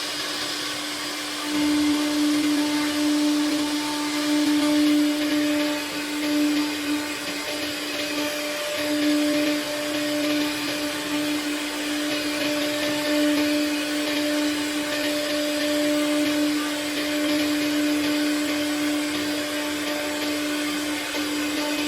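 CNC machine's saw spindle running at a steady pitch while cutting solid wood, with a hiss of cutting noise over the hum; it gets louder about a second and a half in.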